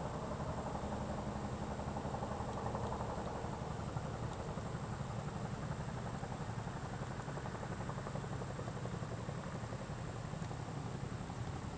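Campfire burning with a steady low rumble of flame and a few faint crackles.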